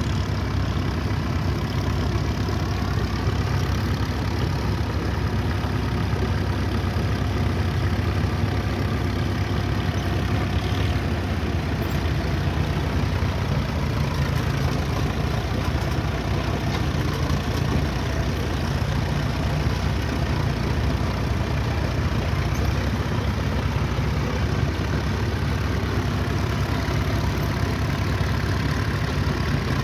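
Engine of an antique dozer or road grader running steadily, with small rises and falls in pitch as it works.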